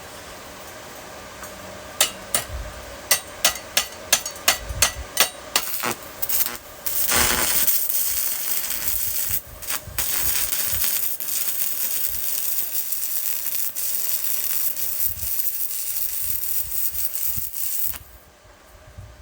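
Stick welding arc from a small inverter welder: about a dozen sharp clicks as the electrode is tapped against the plate to strike, a brief sputter, then a steady crackling sizzle as the rod burns for about ten seconds before the arc is broken abruptly. The welder's cooling fan hums underneath, and at about 124 amps the weld runs kind of cold.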